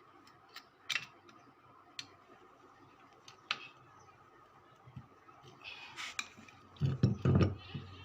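Scattered light clicks and taps, then a short cluster of heavier knocks about seven seconds in, over a faint steady hum: sounds of parts or tools being handled.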